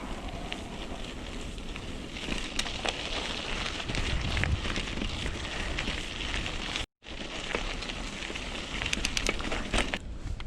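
Mountain bike rolling along a dirt trail: steady crackling and rustling from the tyres on loose ground, with scattered clicks and rattles. The sound cuts out for a moment about seven seconds in.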